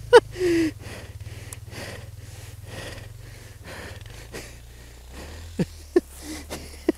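A rider's heavy breathing and short effortful grunts, over a low steady hum. A few brief falling grunts come near the end.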